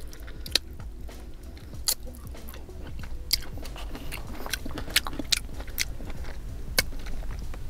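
Close-miked chewing of a chewy dried green plum: irregular sharp mouth clicks and smacks with no speech, over a low steady hum.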